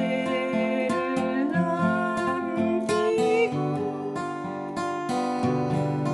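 Acoustic guitar picking a waltz-time arpeggio accompaniment, each plucked note ringing on under the next.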